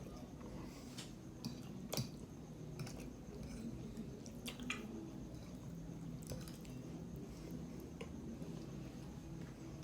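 Quiet, wet eating sounds of a person chewing instant noodles and barbecue-sauced ribs: sticky mouth clicks and smacks every second or so over a low steady hum.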